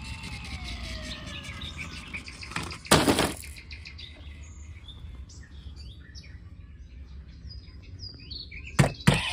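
Birds chirping in short scattered calls over a steady low background rumble. A loud, short noise burst comes about three seconds in, and two more come near the end.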